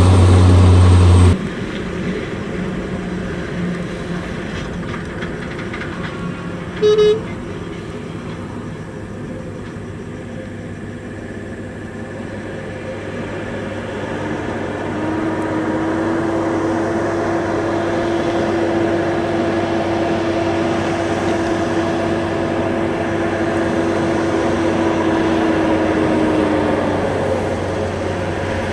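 Heavy haul trucks running, with one short horn toot about seven seconds in. In the second half the sound grows louder and a long steady hum holds for about twelve seconds.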